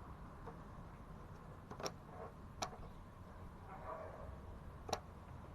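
Three sharp clicks spread over a few seconds, with faint rustling between them, from hands working insulation material and tools.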